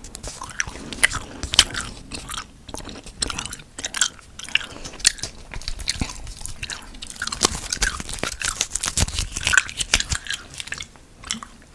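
Close-miked wet mouth sounds: chewing with irregular crisp smacks and clicks of the tongue and lips.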